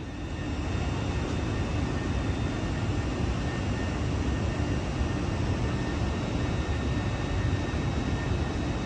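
Train standing with its equipment running: a steady low rumble with a faint high whine.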